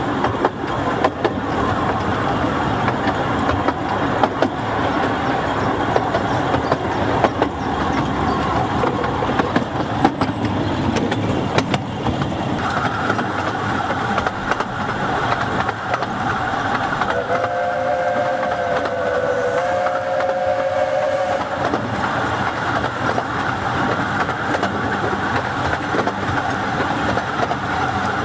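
A 15-inch-gauge train running, heard from the carriage: a steady rumble of wheels on rail with scattered clicks from the track. Around two-thirds of the way through, the locomotive ahead sounds its whistle for about four seconds, with a high steady tone from the train already under way a few seconds before.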